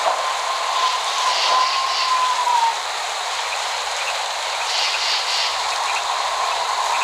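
Steady rain falling, an even hiss with no thunder. A thin high tone sounds over it for the first two and a half seconds, then dips in pitch and stops.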